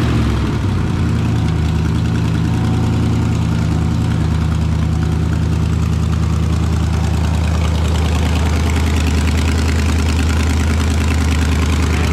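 Turbocharged Chevrolet Camaro V8 on its first start after a single-turbo install, catching and then idling steadily.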